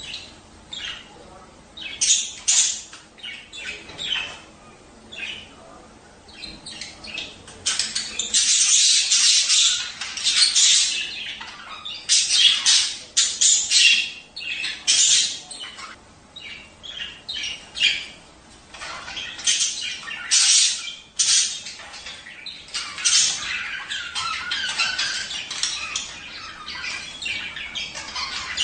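Budgerigars chattering and squawking in quick, overlapping bursts, sparse at first and busier and louder from about a third of the way in.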